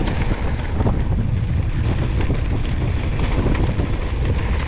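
Wind buffeting the microphone of a mountain bike rolling downhill over loose gravel, a steady low rumble with the tyres crunching and many small clicks and rattles from the bike.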